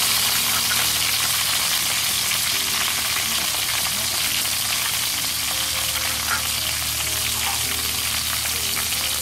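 Pieces of snake deep-frying in hot oil in a pan: a steady, dense sizzle.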